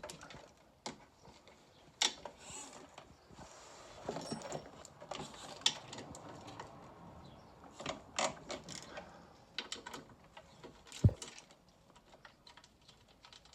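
Irregular clicks, taps and clinks of hand tools and bolts being worked while the chair is unbolted from a stairlift carriage, with one heavier knock about eleven seconds in.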